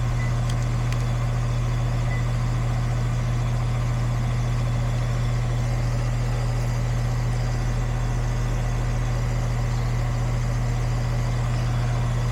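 Goodman air conditioner condensing unit running with a steady low hum.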